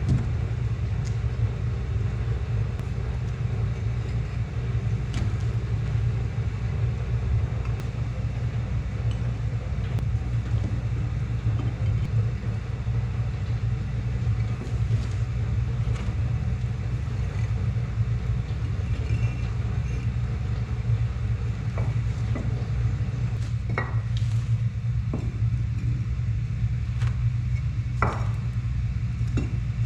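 A steady low rumble, like an engine or motor running, with scattered light clicks and knocks that come more often and louder in the last third.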